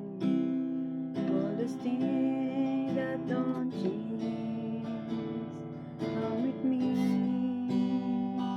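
Acoustic guitar strummed in an instrumental passage between sung verses of a folk song.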